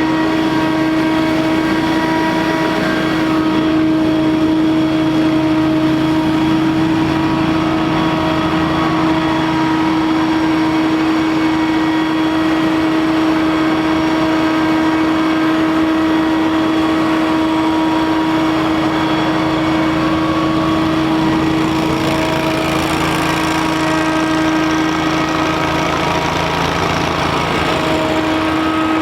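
Scag Windstorm debris blower running steadily: a loud engine drone with a strong, constant whine from the blower fan over a rush of air.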